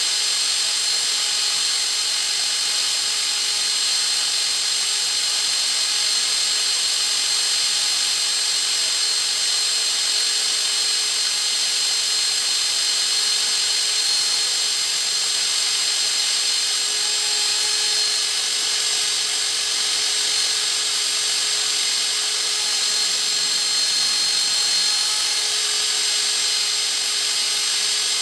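A power tool running steadily without a break, its sound mostly a high hiss with a thin steady whine.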